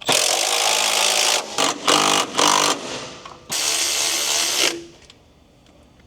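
Power tool tightening engine mount bolts in bursts: a run of over a second, a few short blips, then another run of about a second.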